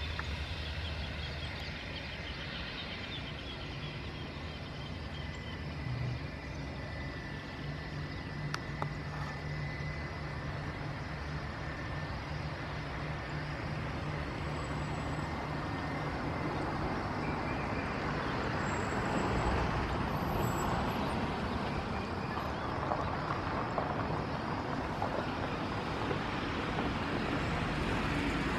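Airbus A319's jet engines running at low taxi power with a steady low hum and a faint whistle, growing louder in the last ten seconds or so.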